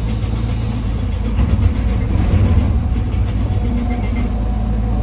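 Heavy diesel machinery running steadily, an excavator and dump truck at work, swelling louder for a moment about two seconds in.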